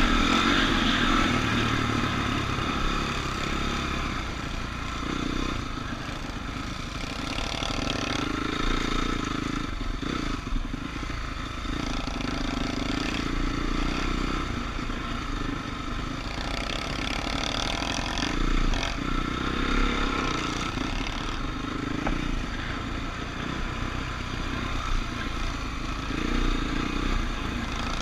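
Motocross dirt bike engines running around the track, revving up and easing off over and over, loudest right at the start.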